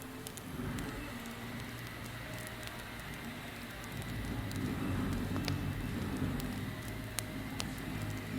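Wood campfire crackling, with scattered sharp pops over a steady hiss and a low rumble that gets louder about halfway through.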